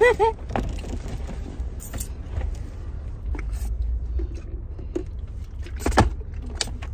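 Low steady rumble of a car idling, heard inside the cabin, under small clicks and handling noises of people eating wings. A short pitched vocal squeal right at the start and a sharp knock about six seconds in.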